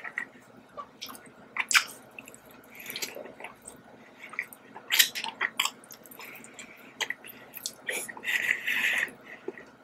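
Close-miked chewing of a soft iced donut, with sharp smacking clicks scattered through, the loudest about two and five seconds in, and a longer stretch of dense chewing noise near the end.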